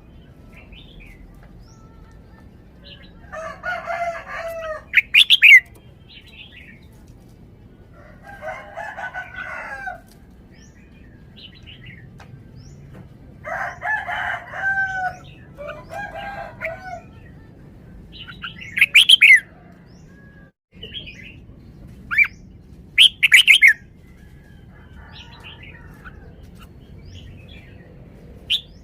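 Red-whiskered bulbul singing short, loud, sharp whistled phrases in a few separate bursts. Between the phrases a rooster crows several times at a lower level.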